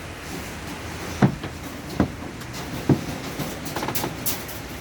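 Three sharp knocks spaced just under a second apart, then a run of quicker, lighter clicks near the end.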